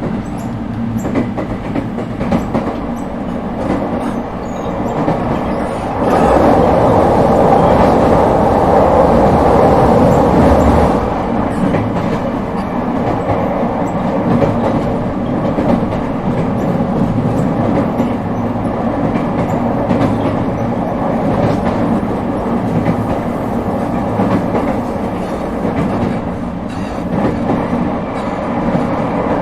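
ET127 series electric train running at speed, heard from inside the car: a steady rumble of wheels on rail with scattered light clicks. From about six to eleven seconds in the noise grows clearly louder and denser, then drops back to the steady running level.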